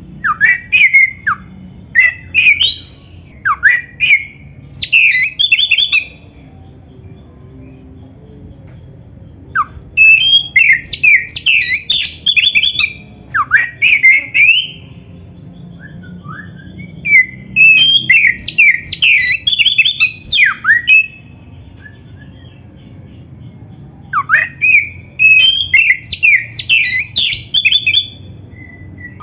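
Oriental magpie-robin (kacer) singing in four bouts of a few seconds each: rapid, varied whistled notes that sweep up and down, with short pauses between bouts, over a faint steady low hum.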